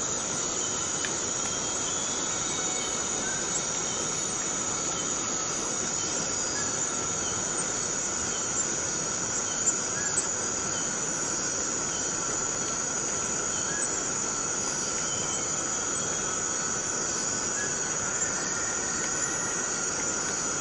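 Forest cicadas droning in a steady, unbroken high-pitched chorus, with a few brief ticks about halfway through.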